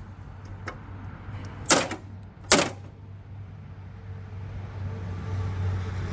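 Two loud knocks a little under a second apart over a steady low hum, then a droning sound that grows louder over the last couple of seconds.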